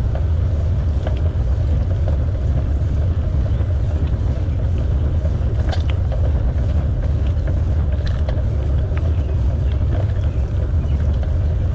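Wind rumbling steadily on the microphone of a bike-mounted camera while cycling, with tyre noise from the path and faint scattered ticks and rattles.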